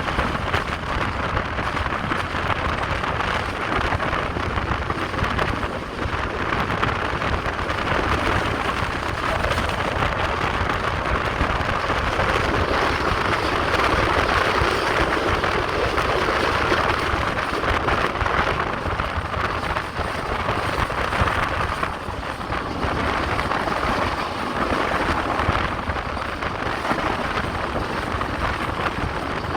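Express train running steadily, a continuous rumble of wheels on the track mixed with rushing air noise.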